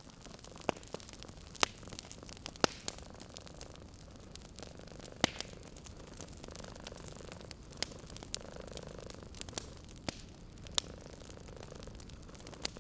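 Wood fire crackling with irregular sharp pops, the loudest about one and a half, two and a half and five seconds in, over a soft steady hiss. A cat purrs quietly underneath.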